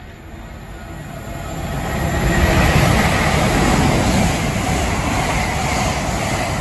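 LNER Azuma intercity train approaching and running past the platform. Its noise builds over the first two seconds or so and stays loud as the carriages go by.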